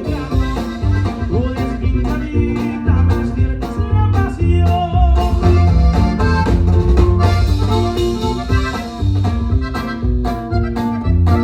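Norteño band playing an instrumental passage, with accordion over a prominent electric bass line and a steady drum beat.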